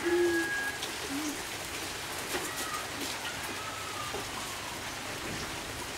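Steady, even hiss of rain falling, with a few faint clicks and a few brief faint high tones.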